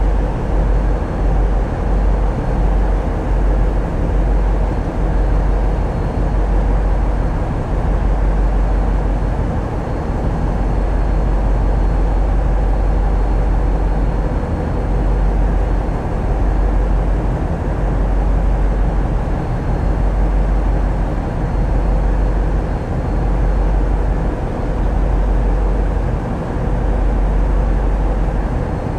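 Tugboat diesel engines running steadily, heard from on board as a continuous deep drone with a rumble that swells and fades slightly.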